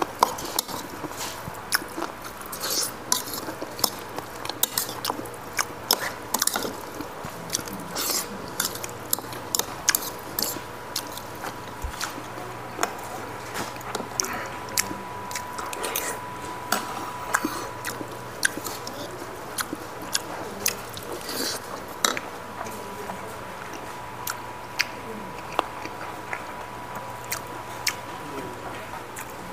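Close-miked eating sounds: irregular chewing and smacking clicks, several a second, with occasional clinks of a fork and spoon against ceramic bowls.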